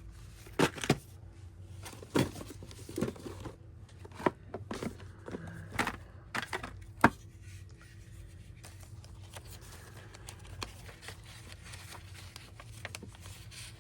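Paper journal pages and small craft pieces being handled, with a string of sharp clicks and taps in the first half and soft paper rustling after that.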